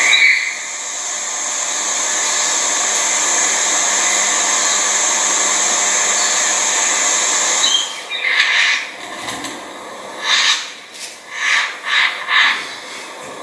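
A steady high hiss that cuts off abruptly about eight seconds in, followed by five or six short, harsh bird calls.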